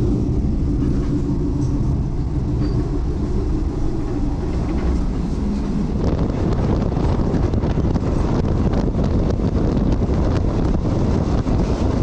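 Passenger train running: a steady low hum of several pitched tones, changing about six seconds in to a rougher rumble of wheels on track with rapid clicking.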